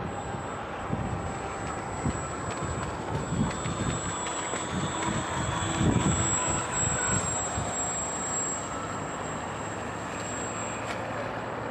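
Battery-electric motor and propeller of a radio-controlled seaplane in flight, a faint whine drifting up and down in pitch. Gusts of strong wind buffet the microphone, loudest about six seconds in.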